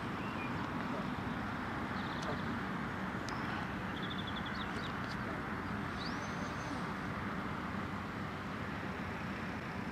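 Steady drone of a radio-controlled model aircraft's motor in flight, with a few bird chirps and whistles over it.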